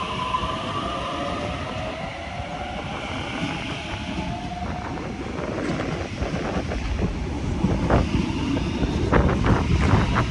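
Sydney Trains Waratah double-deck electric train pulling out. Its traction motors whine, rising slowly in pitch over the first few seconds, under a steady rumble. From about halfway on, the wheels clack over the rail joints, getting louder toward the end.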